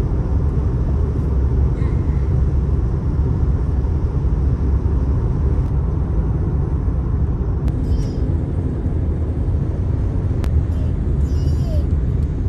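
Steady low rumble of road and engine noise heard from inside a moving car's cabin. A few brief high chirps come in about two thirds of the way through and again near the end.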